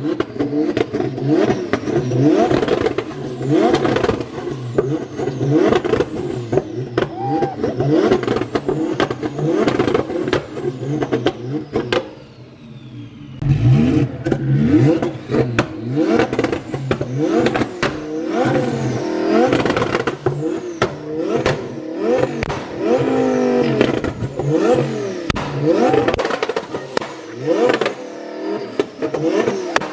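Twin-turbo Lamborghini Huracán's V10 engine being revved over and over in quick stabs, the pitch sweeping up and dropping back each time. It drops to a quieter idle for a moment about twelve seconds in. The revving is part of a remote tune in which the rev limiter is being set.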